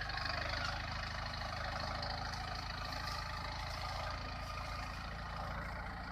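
Tractor's diesel engine running steadily at a constant speed.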